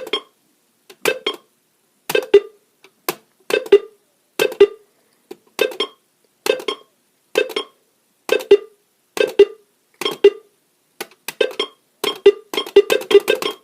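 Alert Works EAR-10 weather alert radio glitching in alert test with the radio off: each button press gives a click and a short low tone burst from its speaker, about one a second, with a quicker run of presses near the end.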